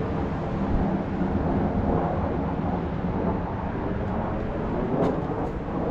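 Wind rumbling on the microphone, a steady low rumble, with a couple of faint clicks about five seconds in.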